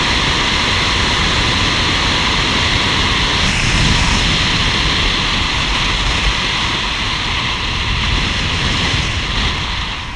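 Loud, steady rush of wind on the microphone, mixed with road noise from a bicycle ridden at speed.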